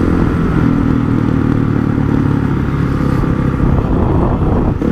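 Honda CRF450 supermoto's single-cylinder engine running steadily while the bike is ridden at an even pace, with a brief dip in loudness just before the end.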